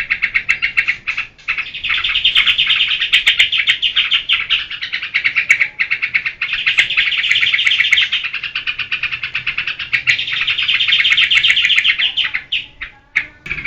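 Yellow-vented bulbul (trucukan) giving its excited 'geberan' chatter: long runs of rapid, high, buzzy notes with brief breaks.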